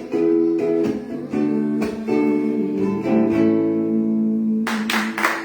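Acoustic guitar strumming chords, the last chord left to ring for about a second and a half. Near the end a sudden burst of noisy, quick taps starts over it.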